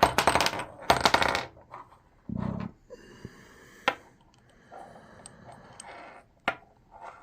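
Small metal objects clinking and rattling in two quick bursts, then a dull knock and a few light clicks, as things are handled on a reloading bench.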